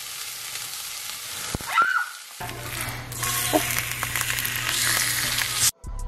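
Food sizzling in a frying pan: broccoli and then a fish fillet frying in hot oil, with a short squeak about two seconds in. The sizzle cuts off suddenly near the end.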